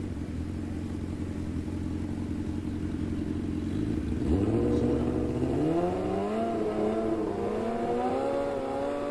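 Superbike engines under hard acceleration: a steady low rumble, then from about four seconds in the engine note climbs sharply in pitch, rising in steps as the bikes pull away.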